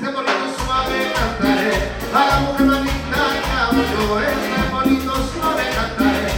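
A Latin dance band playing live: an instrumental passage in a salsa-style groove with bass, percussion and maracas.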